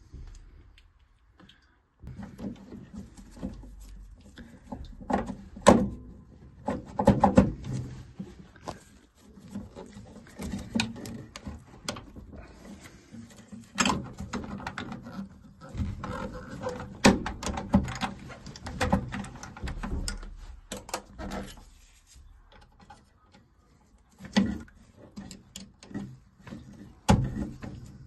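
Irregular clicks, knocks and rattles of hands and tools working on a gas boiler's diverter valve assembly, with a short quiet gap about a second in.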